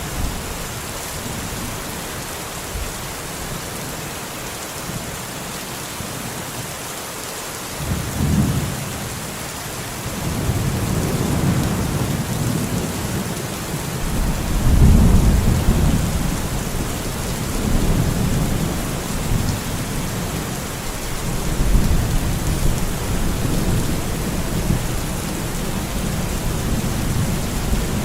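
Steady rain falling with rolling thunder: low rumbles begin about eight seconds in and swell and fade several times, loudest around the middle.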